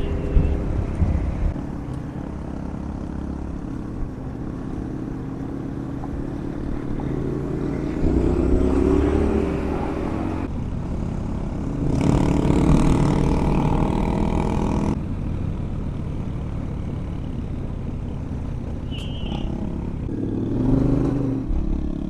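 Adventure motorcycle engine riding a dirt trail, its revs rising and falling, with louder bursts of acceleration about a third of the way in and again just past halfway.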